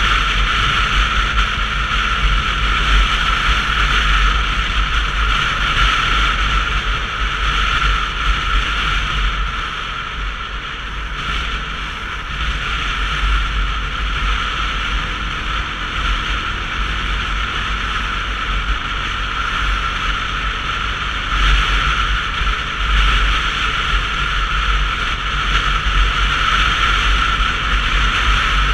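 Steady wind and road noise from a Sinnis Terrain 125cc motorcycle being ridden, with a deep rumble underneath; it eases off slightly about ten seconds in.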